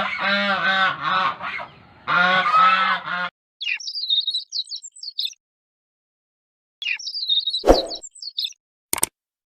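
Goose honking repeatedly for about three seconds, then, after an abrupt cut, rapid high-pitched peeping of young birds in two short spells with a gap of silence between them. A couple of sharp clicks come near the end.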